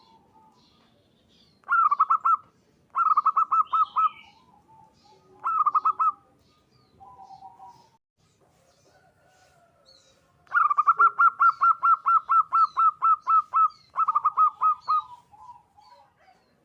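Zebra dove (perkutut) singing its staccato cooing song. It gives five runs of rapid, evenly spaced notes, about eight a second, and the longest run starts about ten seconds in. Faint chirps from other small birds sound throughout.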